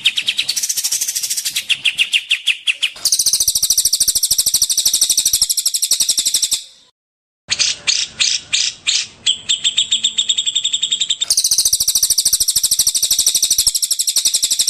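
Recorded songbird song used as masteran tutor material: fast, high trills and runs of rapidly repeated chirping notes, changing pattern every second or two, with a brief silent break a little before halfway through.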